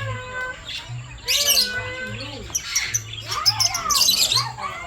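Many aviary birds calling at once: overlapping chirps, whistles and harsh squawks, with loud bursts about a second and a half in and again around three to four seconds in.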